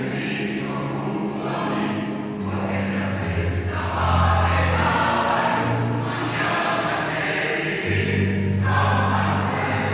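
Choir singing with piano accompaniment, the parts moving through long held chords.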